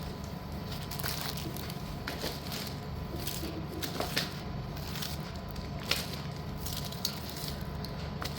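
Scattered light clicks and taps of hard slate pieces being handled and set down, over a steady low hum.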